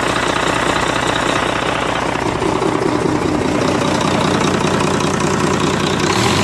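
Volvo D9 inline-six diesel engine in a wheel loader running steadily with a rhythmic, knocking diesel clatter; its tone changes about two and a half seconds in.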